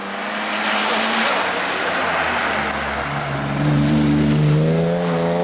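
Rally car engine approaching at speed, getting louder over the first seconds and then held at high revs, loudest in the second half.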